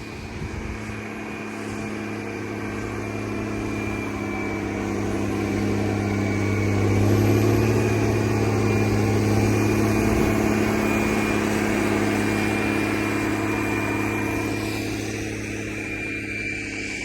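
Snowplow truck's diesel engine running steadily as it approaches and passes, loudest about midway through and then fading.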